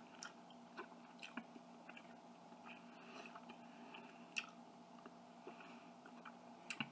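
Faint chewing of chicken and broccoli, with scattered small clicks of a metal fork against a plastic food container. The sharpest click comes about four and a half seconds in, and two more come close together near the end.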